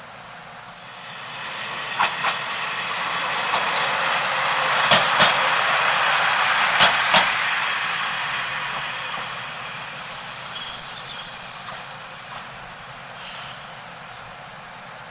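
A train passing on the line: the rumble builds and fades, with a few sharp clicks of wheels over rail joints. About two-thirds of the way through, a high steady wheel squeal sounds for about two seconds, the loudest part of the pass.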